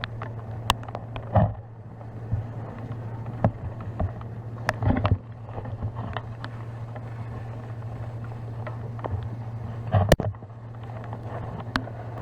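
An engine running steadily with a low hum, with scattered clicks and knocks over it, the loudest about a second and a half in and again near ten seconds.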